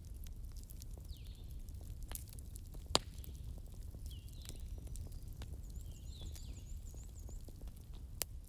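Wood fire crackling, with irregular sharp pops and snaps (the loudest about three seconds in) over a steady low rumble of the flames. Short repeated chirping calls sound in the background, with a quick run of high notes about six to seven seconds in.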